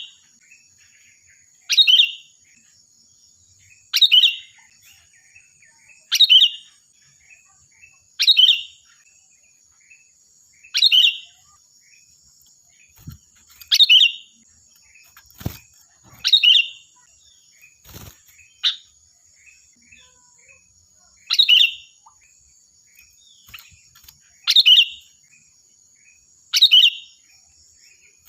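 Sooty-headed bulbul (kutilang) calling loudly: a short, bright phrase repeated every two to three seconds. A faint steady high tone runs underneath, and there are a few soft knocks in the middle.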